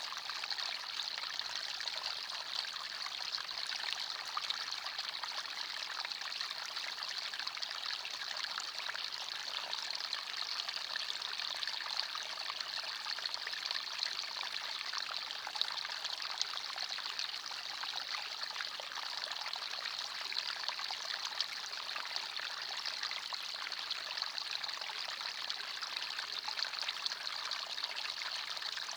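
Small forest stream babbling and trickling over stones, a steady rush of water with many small splashes and no change throughout.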